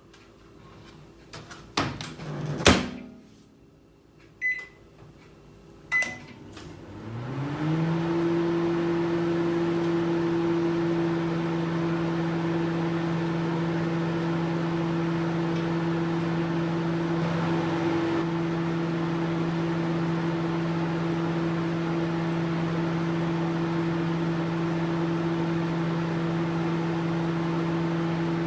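A couple of knocks, then two short keypad beeps about four and six seconds in. A microwave oven then starts: its hum rises briefly in pitch and settles into a steady running drone.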